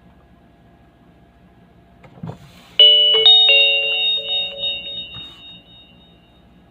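A short low thump, then a chime: several bright ringing notes struck in quick succession that fade away over about three seconds, over a faint steady hum.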